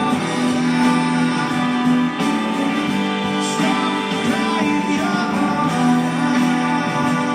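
Live rock band playing, with guitar chords and long held notes in front.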